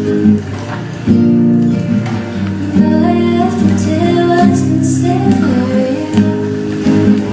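Acoustic guitar playing a chord progression as song accompaniment, each chord held for a second or two.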